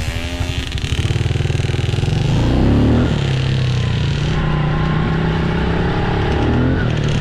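Dirt bike engine running under way, revving up about two seconds in to its loudest point near three seconds, then running on steadily.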